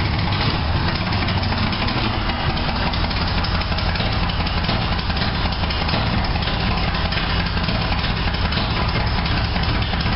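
Freshly rebuilt 350 Chevrolet Vortec small-block V8 idling steadily, with its exhaust not yet welded up.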